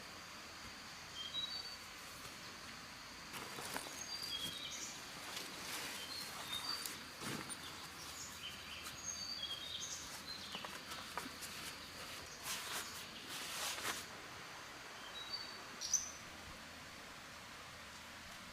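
Forest ambience: small birds giving short, high chirps again and again, over a faint steady high tone, with scattered brief rustles and knocks, the sharpest about three-quarters of the way through.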